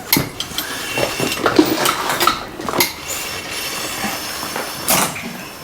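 Metal clanking and rattling: an irregular run of knocks and clinks, with a few short squeaks.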